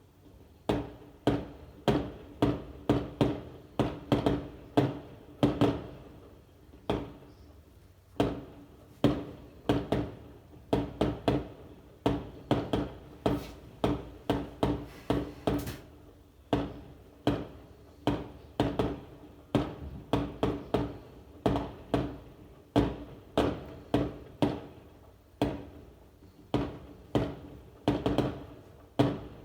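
Fireworks exploding in a long irregular run of sharp bangs, often several a second, each fading quickly, with a few short lulls.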